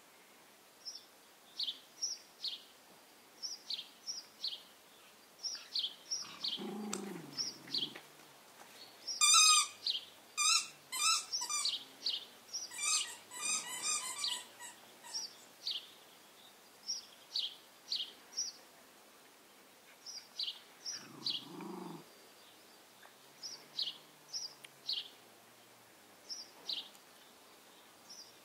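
A small songbird chirping over and over in short, high, falling notes, a few a second in clusters. From about 9 to 15 seconds in, a louder run of high squealing calls with a wavering pitch is the loudest sound, and twice a brief low rumble is heard.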